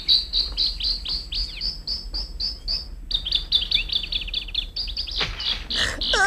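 Birdsong sound effect of a rapid series of short, high chirps, about four a second, with a brief break about three seconds in.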